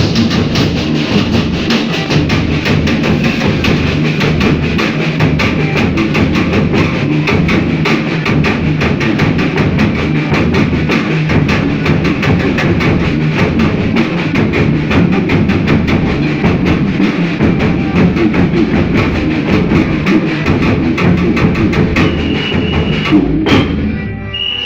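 Folia troupe playing folk music with loud, fast, steady drumming and other percussion, which stops abruptly about a second before the end.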